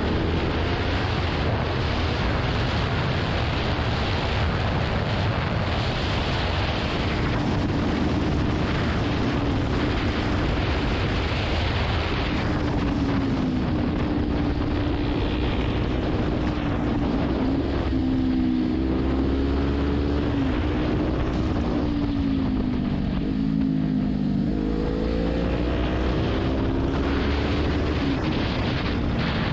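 Kawasaki Ninja 400 parallel-twin engine pulling at speed, its pitch rising and falling with throttle and gear changes, under heavy wind rush on the microphone.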